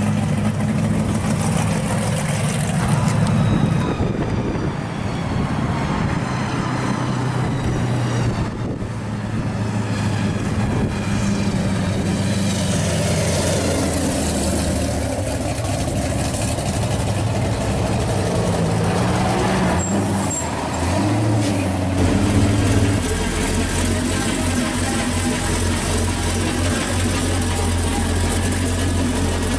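Modified V8 hot-rod and muscle-car engines, one of them supercharged, rumbling and revving as the cars pull slowly past one after another. About two-thirds of the way through the sound shifts to a steadier, deep low idle.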